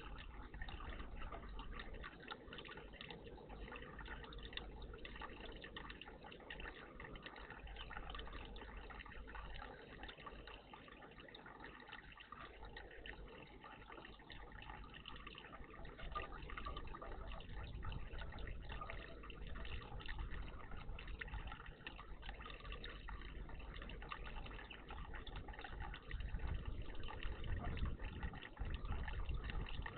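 Water trickling and splashing steadily in a garden bird bath, with a low rumble coming and going in the second half.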